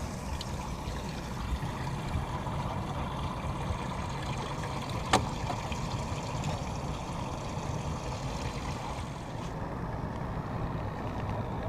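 Boat outboard motor running steadily at low speed, with water noise around it; a single sharp click about five seconds in.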